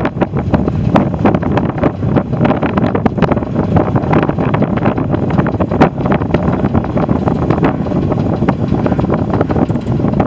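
Wind buffeting the microphone: a loud, steady low rumble with frequent crackles.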